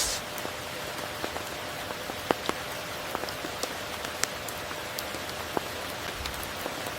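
Steady tropical rain, with separate drops ticking sharply on a surface close by; one louder drop lands a little over two seconds in.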